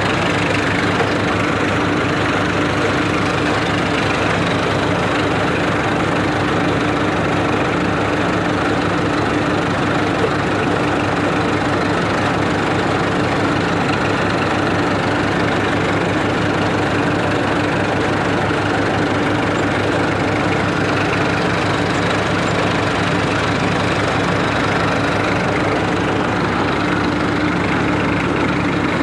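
Massey Ferguson tractor's diesel engine running steadily while driving a grain thresher, the engine and the threshing machine together making one continuous, even mechanical din.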